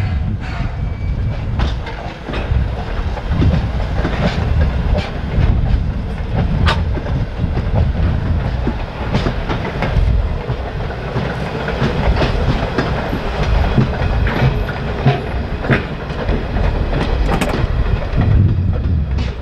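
Railroad cars of a steam-hauled tourist train rolling on the track: a steady low rumble, with the wheels clicking irregularly over the rail joints.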